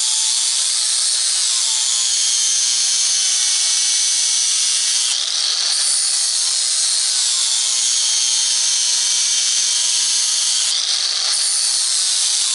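Power grinder sharpening a hardened-steel mower blade: a loud, continuous high grinding hiss whose pitch sags and recovers over two long passes along the edge, each about five seconds.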